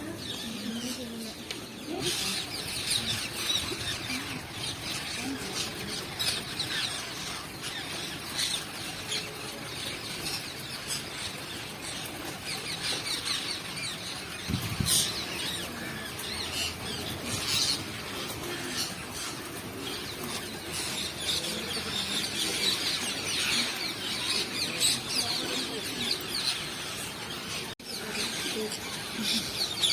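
A large flock of parrots calling: many shrill, overlapping screeches without a break, with a brief thump about halfway through.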